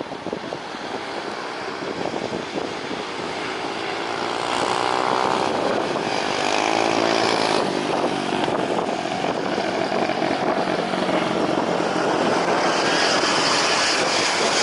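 Airliner engines passing close by. The noise swells over the first few seconds and then stays loud, with a tone that sweeps down and back up around the middle as the aircraft goes past.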